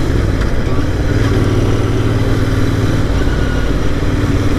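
Royal Enfield Interceptor 650's parallel-twin engine running under way through its stock exhausts, with a K&N air filter and air filter plate fitted that give it a bassier note. The note dips at the start, then picks up again within about a second and holds steady.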